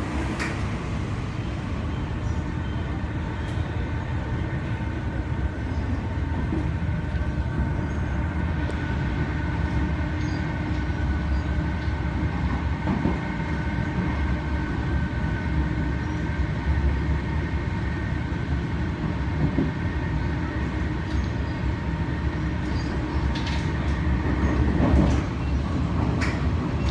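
MTR Metro Cammell electric multiple unit running along the line, heard from inside the car: a steady low rumble of wheels on track with a steady whine over it, and a few sharp knocks from the rails.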